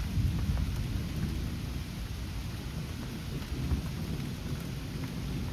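Thunderstorm: a low, continuous rumble of thunder over steady rain, with a few faint raindrop ticks.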